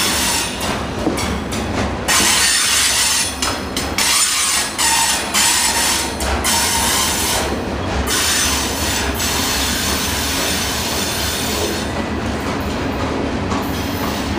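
CSX freight train cars rolling past, with steady wheel-on-rail noise. The noise dips briefly several times in the first half, then runs steadily.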